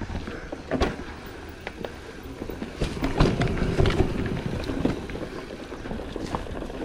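Rock Machine Blizzard mountain bike ridden over a forest trail: tyre rumble on dirt and sharp clattering knocks as the bike goes over bumps, thickest about three to four seconds in, with wind rumble on the helmet camera's microphone.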